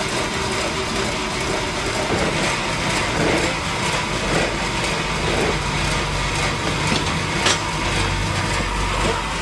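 Sawmill machinery engine running steadily, with a low hum and one sharp click about seven and a half seconds in.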